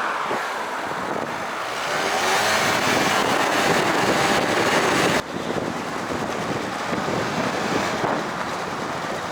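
Moped engine running under way, with wind buffeting the microphone; it gets louder from about two seconds in and drops off abruptly a little after five seconds.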